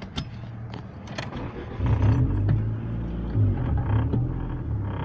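Keys jingling with a few sharp clicks, then about two seconds in a car engine starts and keeps running low and steady.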